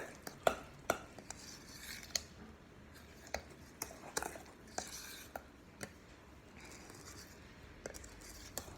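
Faint, irregular light clicks and taps with some soft rubbing: small kitchen items being handled on a counter.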